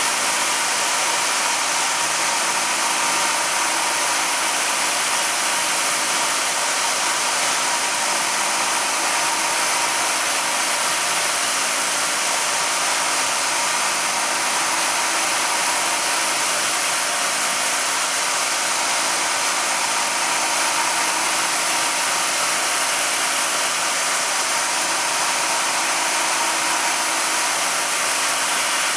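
A motor running steadily: an even hiss with a steady hum that stays unchanged throughout.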